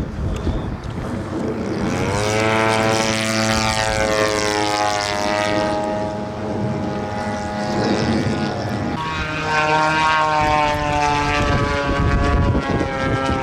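Radio-controlled model airplane engine and propeller droning in flight, the pitch rising about two seconds in, then holding. It shifts to a new, steadier note about nine seconds in. Wind rumbles on the microphone underneath.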